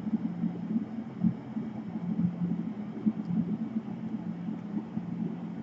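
Steady low hum with small irregular knocks and handling noises on top.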